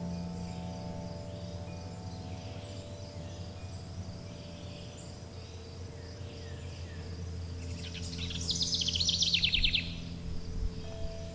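A songbird sings a loud, rapid trill of repeated notes about eight seconds in. Behind it there is a steady, pulsing insect chirring in the high range, over held low musical tones that change near the end.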